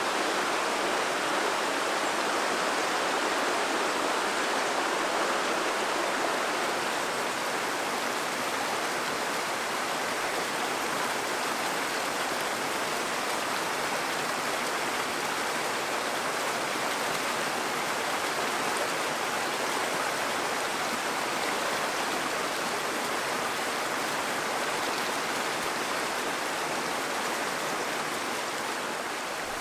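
Shallow mountain river rushing and babbling steadily over stones.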